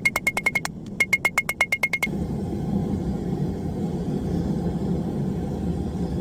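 Hammer blows on hot mild steel on the anvil: two quick runs of strikes, each with a bright ring. About two seconds in the hammering stops and a steady low rushing noise of the forge running takes over.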